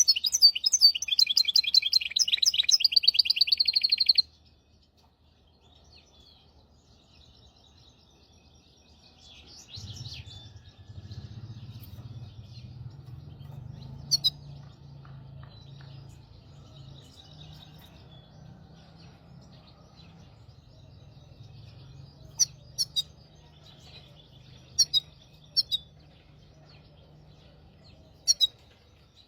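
Hybrid finch singing a loud, rapid trilling song that cuts off suddenly about four seconds in. Then come soft twitters and a few sharp single chirps over a faint low hum.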